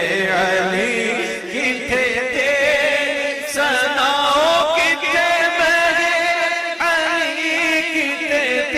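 Devotional chant-style singing, a naat: a voice sings long, gliding melodic lines without pause.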